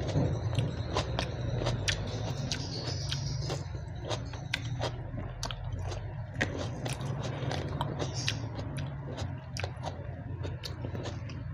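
Close-miked chewing and biting of food, with many short, sharp crunches and mouth clicks, over a steady low hum.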